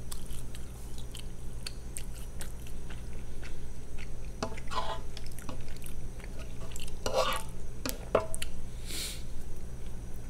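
Mouth sounds of someone chewing a roast beef dinner, with scattered sharp clicks of cutlery on a plate.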